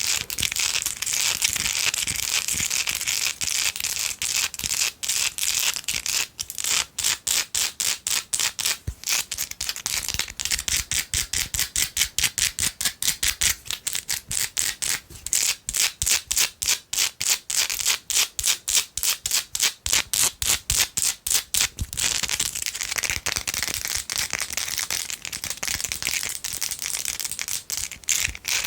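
Long fingernails scratching fast on a candle, then quick even tapping at about four taps a second, then scratching again near the end.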